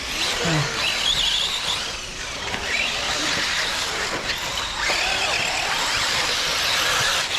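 Several radio-controlled off-road race cars running on a dirt track, their motors whining at high pitch, the sound wavering as they accelerate and brake through the corners.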